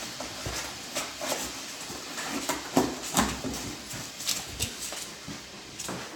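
Alaskan Klee Kai puppies moving about in a box: irregular light taps and scratches of small paws and claws, a little louder about three seconds in.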